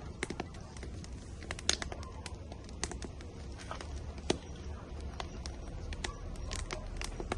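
Firewood burning in an outdoor grill, crackling with irregular sharp pops over a low steady rumble.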